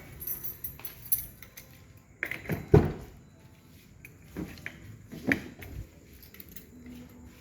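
Keys jangling and a few sharp knocks and rattles of a car being opened, with one loud thump a little under three seconds in.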